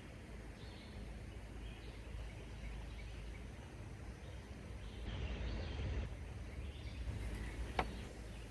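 Faint outdoor ambience: a steady low rumble with a few faint bird chirps, and a single short click near the end.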